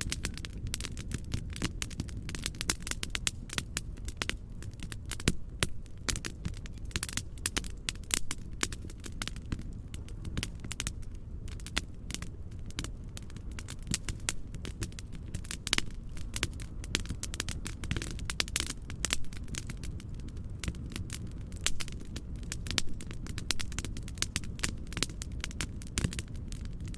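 Fireplace crackling: many irregular sharp pops and snaps over a steady low rumbling white-noise bed.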